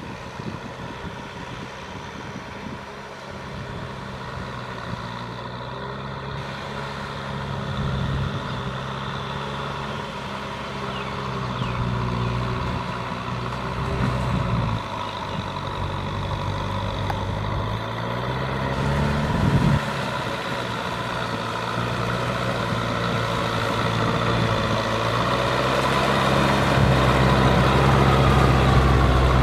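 Kubota M6040SU tractor's diesel engine working under load pulling through mud, its pitch rising and falling with the revs a few times and growing steadily louder toward the end.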